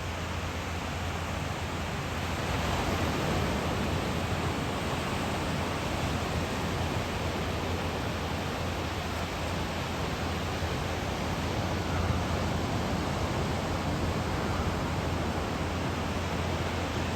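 Steady rushing roar of typhoon-driven ocean surf breaking on a beach, swelling slightly a couple of seconds in.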